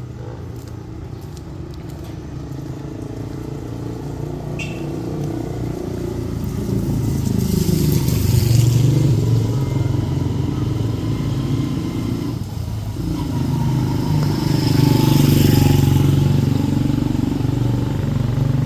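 Motor vehicles passing close, their engines rising and falling in pitch. Two loud passes, about eight and fifteen seconds in.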